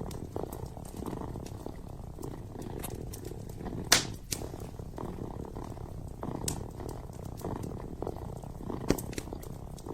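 Kitten purring steadily in a low, rough rumble, with wood fire crackling in sharp pops, the loudest about four seconds in and again near the end.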